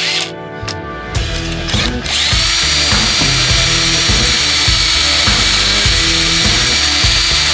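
Power drill running, starting and stopping briefly at first, then held on steadily with a high whine from about two seconds in. Background music plays underneath.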